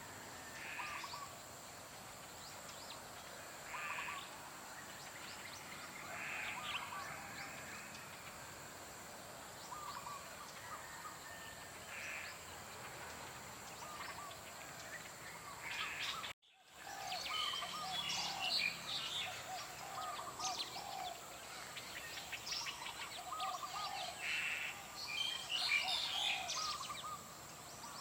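Wild birds calling and singing: short chirps and whistled notes from several birds over a steady faint high-pitched tone. The sound cuts out for an instant about sixteen seconds in, and a busier, louder chorus of calls follows.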